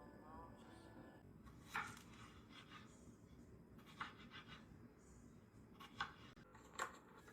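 Background music ends about a second in, then a quiet room with four sharp light knocks or clicks spaced one to two seconds apart.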